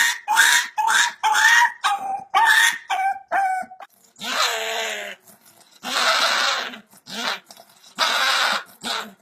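A dog vocalizing: a rapid run of short, high-pitched cries, about two or three a second, then about four seconds in, three long, rough, hoarse calls, each about a second long and roughly two seconds apart.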